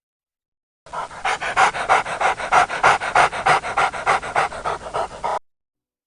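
A dog panting fast and rhythmically, about five breaths a second, starting about a second in and cutting off suddenly near the end.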